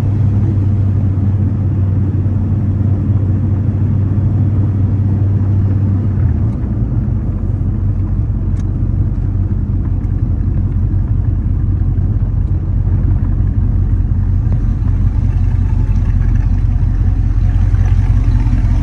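1972 Chevrolet Corvette's 350 V8 running steadily as the car is driven, a low drone that drops lower in pitch about six seconds in.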